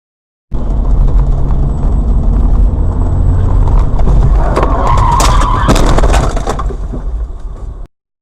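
Car engine and road rumble from a dashcam, cutting in about half a second in, with a rising harsher noise and a few sharp bangs around five to six seconds in, then cutting off abruptly near the end.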